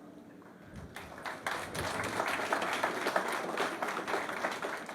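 Audience applauding, many hands clapping; it starts about a second in and quickly builds to a steady level.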